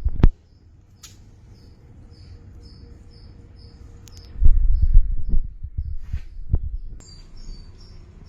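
An insect chirping in a steady rhythm, about two and a half short high chirps a second. A burst of low thumps and rumble, the loudest sound, comes in about halfway through.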